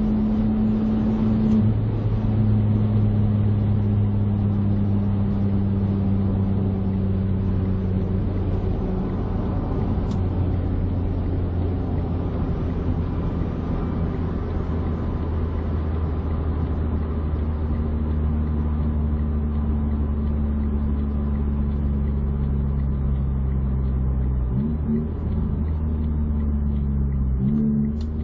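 A Smart's turbocharged three-cylinder petrol engine running steadily through an aftermarket XSP exhaust. Its note holds a constant pitch, then shifts briefly twice near the end.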